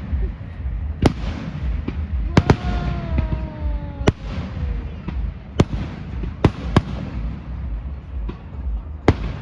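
Fireworks display: about eight sharp, irregularly spaced bangs of exploding shells, two of them in quick succession about two and a half seconds in, over a steady background hiss.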